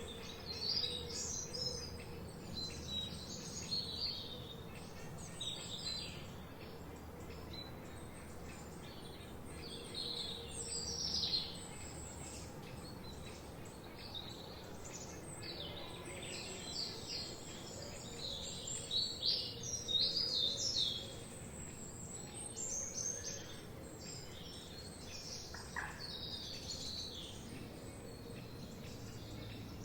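Several songbirds singing and chirping, many short high phrases overlapping, busiest in two stretches near the middle, over a faint steady background hum.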